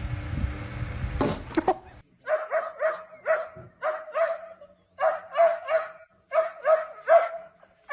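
A dog giving short, high-pitched yipping barks in quick runs of three or four, with brief pauses between runs. Before it, a low rumbling background noise cuts off about two seconds in.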